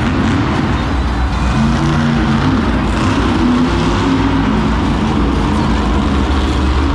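Monster truck engine running loud in an arena, revving up and down during a freestyle run.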